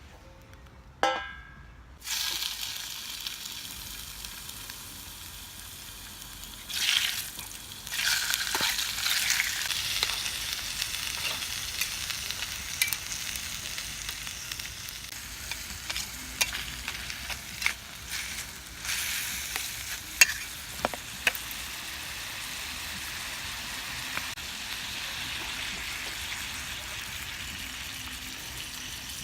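Meat for ginger-pork sizzling in a small mess-kit frying pan; the sizzle starts suddenly about two seconds in and flares up a couple of times a quarter of the way through. Sharp clicks and scrapes come from a utensil stirring it.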